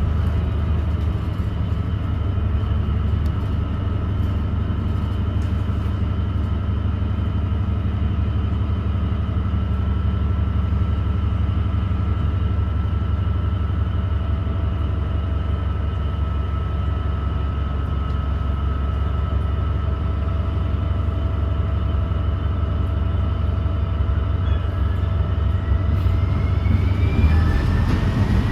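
Ride inside a 2017 New Flyer XDE40 diesel-electric hybrid bus under way: a steady drivetrain rumble with a high whine held at one pitch, and near the end a whine rising in pitch.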